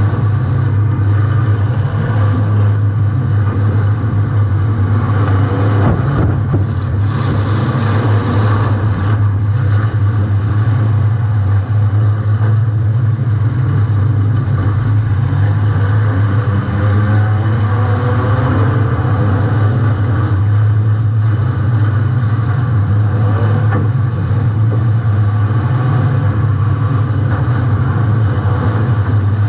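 Compact demolition-derby car's engine running loud and steady under throttle, with a few knocks about six to nine seconds in.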